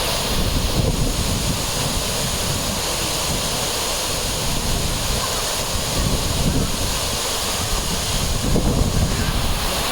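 Waterfall rushing with a steady roar of water, with wind buffeting the microphone in low gusts a few times.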